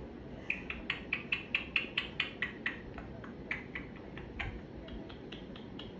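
Pet parrot making a quick run of short, sharp clicks, about five a second, then slower, scattered clicks.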